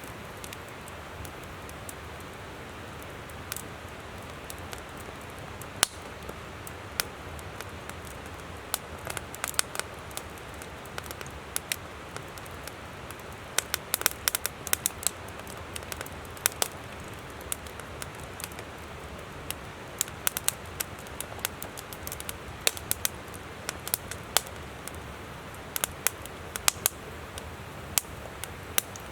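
Wood campfire crackling, with sharp irregular snaps that sometimes come in quick clusters, over the steady rush of a flowing river.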